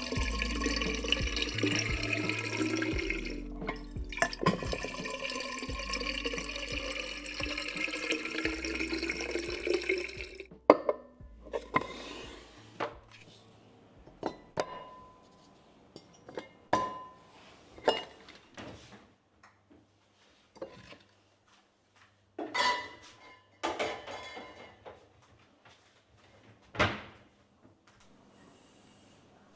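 Soft background music that stops about ten seconds in, followed by a dozen or so separate clinks and knocks of kitchenware (dishes and glass) being handled, some ringing briefly.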